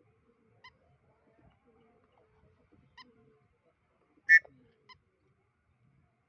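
White-breasted woodswallow giving short call notes: four brief calls spread over several seconds, the third much the loudest.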